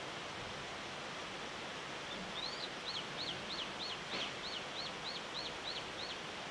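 A small songbird sings a quick series of about a dozen identical short whistled notes, about three a second, starting about two seconds in and stopping near the end, over a steady outdoor background hiss.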